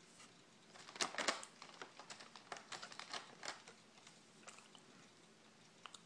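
Faint, irregular crisp clicks of chewing a mouthful of Chips Ahoy s'mores cookie, bunched in the first half and thinning out after.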